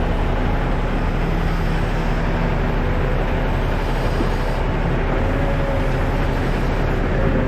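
Heavy diesel dump truck engine running at a steady, even speed.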